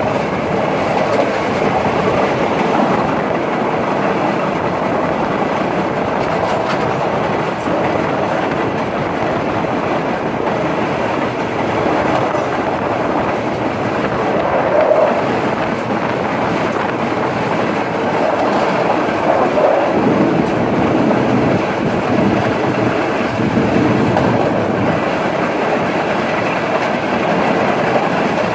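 Udaya Devi express train running along the track: a steady rumble of wheels on rails with scattered clicks from the rail joints.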